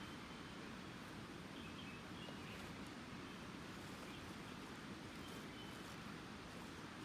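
Steady outdoor background noise with faint, short bird chirps now and then.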